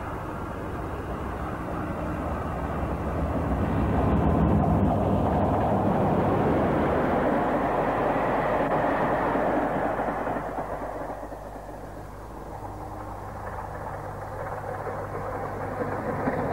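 Diesel train passing: a low engine drone with a rushing noise that builds about four seconds in, holds, then fades around twelve seconds before rising again near the end.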